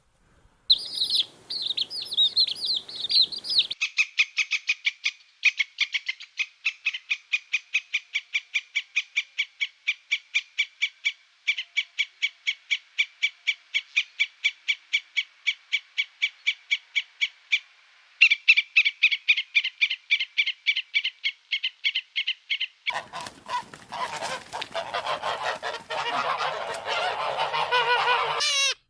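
Animal calls. High chirps come first, then a long run of quick calls repeated evenly at about four or five a second on one pitch, then a dense chorus of many overlapping calls.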